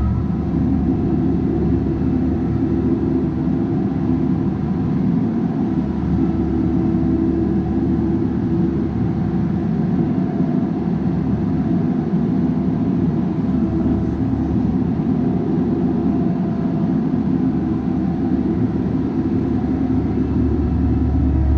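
Bobcat 337G mini excavator's diesel engine running steadily at working revs, a constant low drone with faint higher tones that waver slightly.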